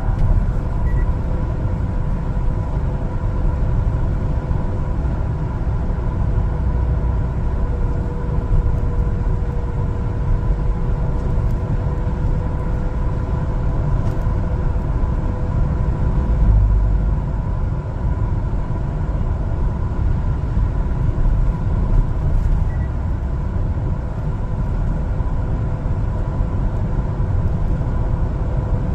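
1-ton LPG cargo truck driving on the road: a steady low rumble of engine and road noise, with a faint steady whine over it.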